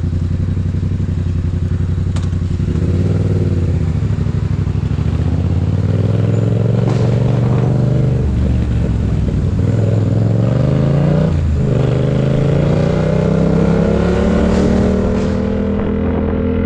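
Yamaha MT-07's parallel-twin engine pulling hard through the gears. The revs climb, drop at two upshifts about eight and eleven seconds in, and climb again.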